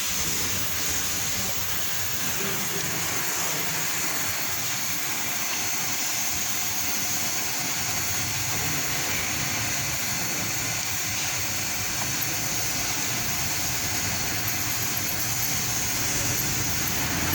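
Manual metal lathe running steadily with an even, hissing machine noise and a low hum underneath.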